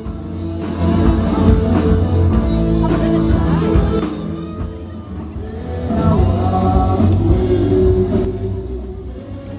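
Rock band playing live, with guitar and a singing voice.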